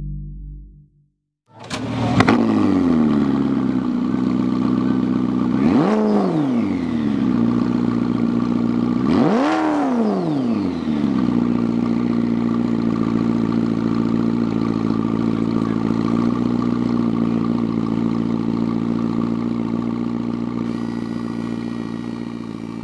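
A car engine starting with a sharp burst, settling to a steady idle, then revved twice, the second rev longer and higher, before it idles on and fades out.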